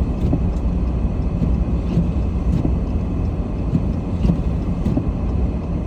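Car driving on a snow-covered road, heard from inside: a steady low rumble of engine and tyre noise.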